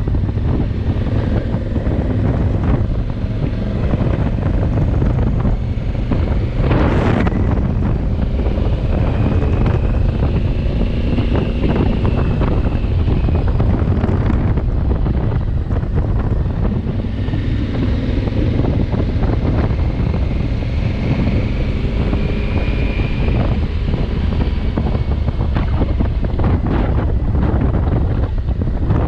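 Wind buffeting the microphone while riding a 2020 Honda Africa Twin, with the motorcycle's engine and road noise underneath. There is a brief rush about seven seconds in.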